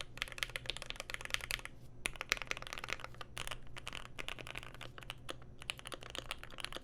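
Typing test on a Keychron Q1 aluminium-plate mechanical keyboard with lubed, filmed Pinoko switches and GMK keycaps: rapid keystrokes in quick runs, with two short pauses. The board is tape-modded and stuffed with Poly-Fil and PE foam to soften its sound.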